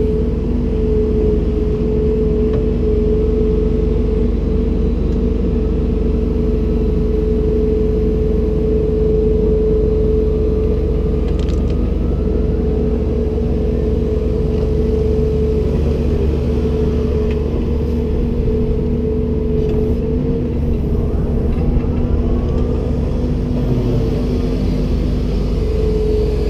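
Komatsu PC290-10 excavator running steadily: a low engine rumble with a steady whine held at one pitch over it, dipping slightly a couple of times.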